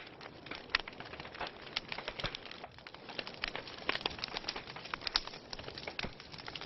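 Wood fire crackling in a fireplace: frequent irregular sharp pops and snaps over a soft steady hiss of burning logs.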